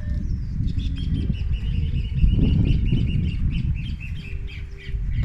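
A bird singing a rapid string of short high chirps, about five a second, from about a second in, over a loud rough low rumble that swells about halfway through.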